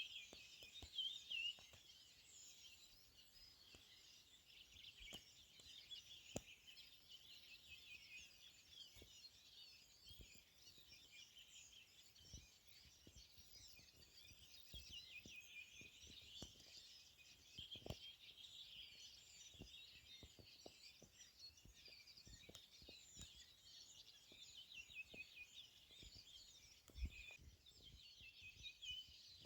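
Faint chorus of many small birds singing and chirping at once, with scattered faint clicks and knocks.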